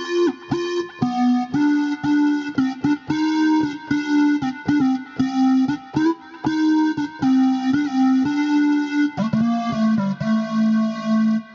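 Omnisphere software synthesizer lead patch played as a single-note melody, several short notes a second, ending in a longer held lower note over the last couple of seconds.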